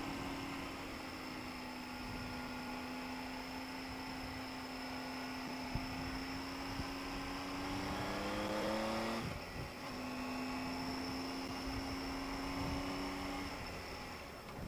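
Triumph Tiger 800 XRT's three-cylinder engine running under way, holding a steady note, then rising in pitch as it accelerates about eight seconds in and dropping suddenly at a gear change a second later. It settles at the lower note and eases off near the end.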